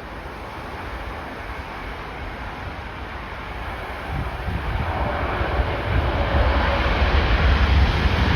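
Jet airliner on approach, its engine noise growing steadily louder as it nears, with gusty wind buffeting the microphone.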